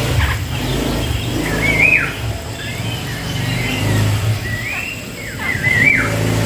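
Grey-cheeked bulbul (cucak jenggot) calling: short, curling whistled phrases that slide up and down, one about two seconds in and another near the end. Underneath, a low motor hum comes and goes.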